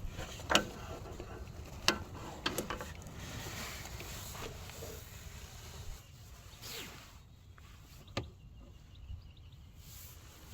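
A handful of separate sharp knocks and clicks, several in the first three seconds and one more near the end, over a low steady background noise.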